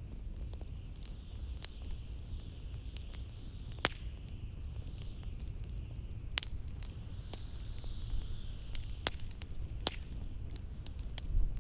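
Wood fire crackling, with scattered sharp pops, over a steady low rumble of blizzard wind. A high hiss swells and fades twice.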